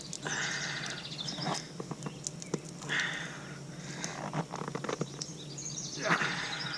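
A chamois being wiped over a truck's wet paint to dry it: three short swishes about three seconds apart, with small clicks and taps between.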